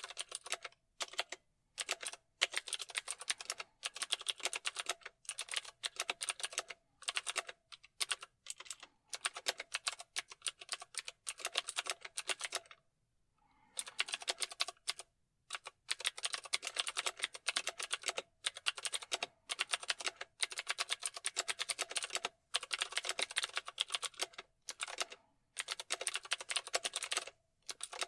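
Typing on a computer keyboard: fast runs of key clicks in bursts of a second or two, broken by short pauses, the longest about halfway through.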